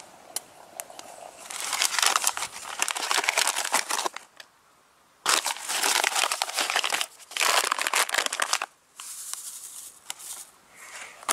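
Crinkling of a packet or bag being handled, in several separate bursts with short pauses between.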